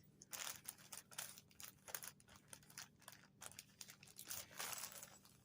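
Faint, irregular crinkling and rustling of packaging being handled and opened.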